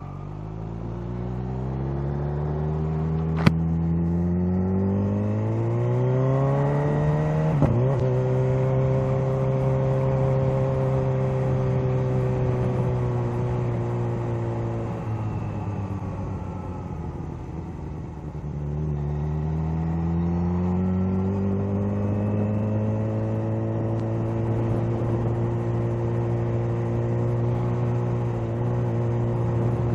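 Kawasaki Z H2's supercharged inline-four engine under way: the revs climb through the first several seconds, hold steady, drop off around the middle, then climb again and settle to a steady cruise. A single sharp click about three and a half seconds in.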